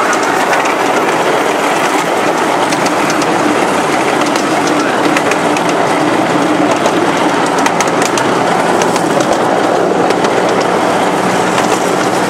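Train running on its rails: a steady rumble and rattle with scattered sharp clicks.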